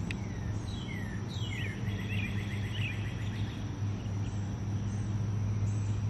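Backyard birds calling: a few short falling whistles, then a quick run of repeated notes about two seconds in. Underneath is a steady low hum with a faint steady high tone.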